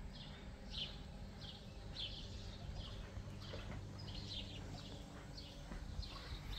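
A small bird chirping over and over, short high chirps at about two a second, over a faint steady low hum.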